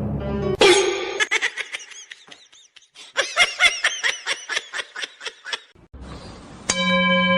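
A person laughing in a run of rapid short bursts, about four or five a second, for a few seconds. Near the end a steady held tone comes in.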